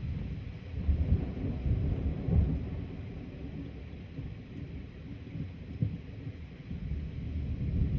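Thunder rumbling, swelling to its loudest a second or two in, then easing off before rising again near the end, over a faint steady hiss.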